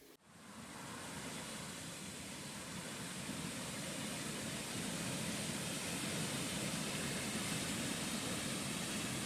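Steady rush of a waterfall, an even hiss with a low rumble, coming in just after the start and holding.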